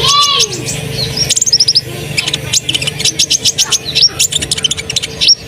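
Brown-throated sunbird (kolibri ninja) singing energetically: a fast, continuous run of high chirps and twittering notes, many of them short downward sweeps.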